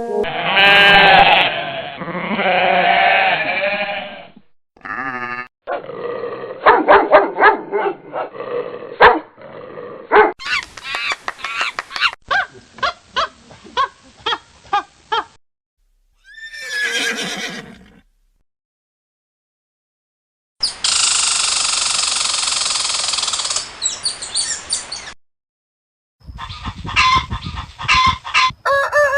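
A series of different animal calls played one after another in short separate clips, with brief breaks between them.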